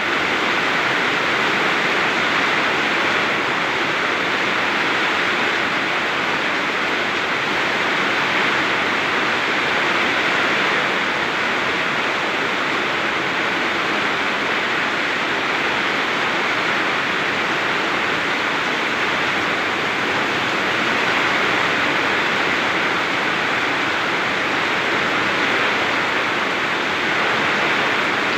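Very heavy rain pouring steadily in a storm, a dense, even hiss.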